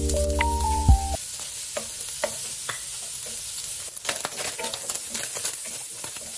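Diced SPAM sizzling in hot oil in a stainless-steel wok, stirred with a wooden spatula that knocks and scrapes against the pan in short clicks. Background music plays for about the first second, then stops.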